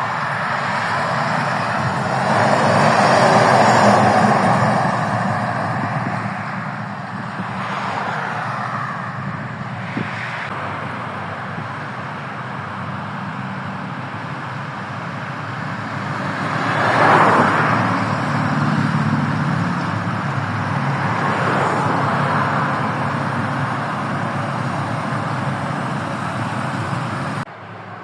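Scania truck running amid traffic noise. It swells louder about three seconds in and again about seventeen seconds in, and drops suddenly to a quieter level near the end.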